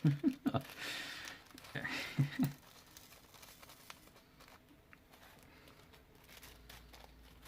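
A few short breathy vocal sounds and exhalations, then faint scattered small clicks and taps of diamond painting drills being handled and pressed onto the canvas.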